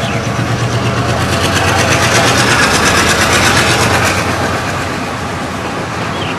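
Passenger train running at speed, heard from an open carriage window: a steady rush of wheels on rails with fast clicking and a low engine hum. It grows louder about a second and a half in, then eases off near the end.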